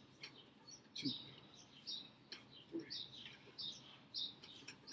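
Small birds chirping repeatedly, faint, with short high calls every half second or so. A couple of brief low sounds break in about a second and nearly three seconds in.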